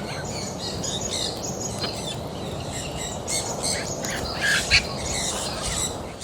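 Many birds calling at once, a dense mix of short chirps and harsh squawks, with one louder call about three-quarters of the way through, over a steady low background noise.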